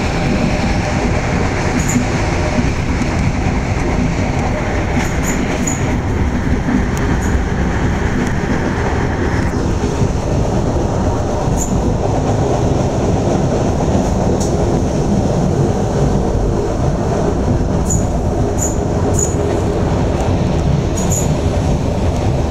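Inside an SA109 diesel railbus (Pesa 214M) under way: a steady rumble of the engine and wheels on the track, with scattered sharp ticks. The higher hiss in the noise drops off about ten seconds in.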